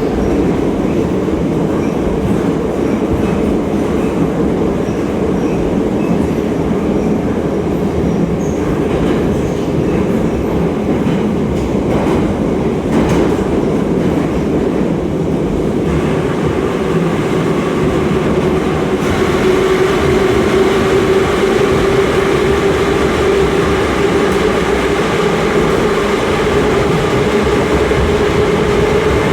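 Inside a Moscow Metro 81-717.5M 'Nomernoy' subway car running through a tunnel: steady rumble of wheels on rail with some clickety-clack, and a steady hum that grows stronger about halfway through.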